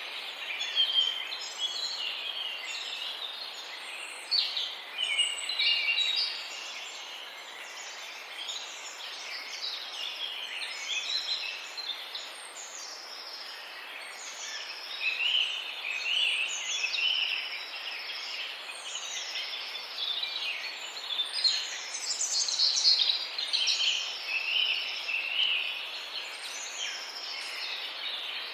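Birds chirping and singing, many short high calls overlapping, with one whistled phrase repeated again and again, over steady outdoor background noise.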